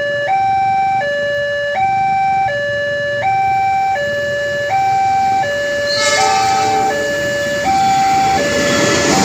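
Railway level-crossing warning signal sounding a two-tone electronic hi-lo alarm that switches pitch about every three-quarters of a second. About six seconds in, the noise of an approaching train swells up under it.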